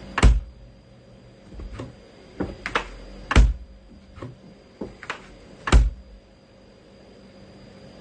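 Irregular knocks and thumps in a small room: three loud, deep thuds, one near the start, one about halfway and one near the end, with lighter clicks and taps between.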